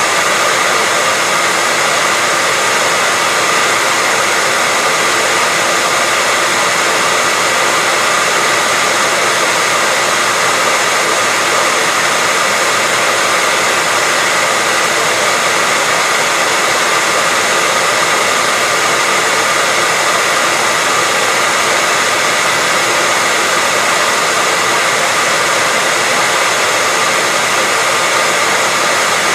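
Hair dryer running steadily without a break: an even rushing hiss with a faint steady whine from its motor.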